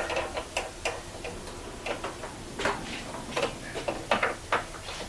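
Irregular light metallic clicks and taps from bolts being worked through the holes of an outboard motor mount, about two a second.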